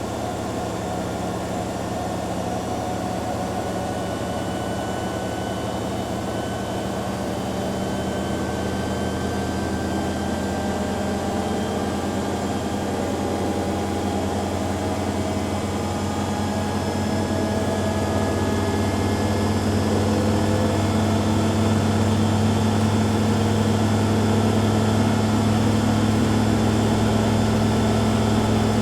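Two front-loading washing machines, a Hoover Dynamic Next DXA610IW3 and a Beko Pro AquaTech WX94044EO, running their spin cycles together: a steady motor and drum hum with faint whines slowly rising in pitch. The sound grows louder through the second half as a drum speeds up.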